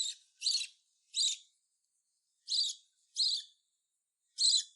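Hand-fed lovebird chick giving six short, raspy chirping calls, with a pause of about a second midway. These are begging calls: the chick is still asking for food right after a feed.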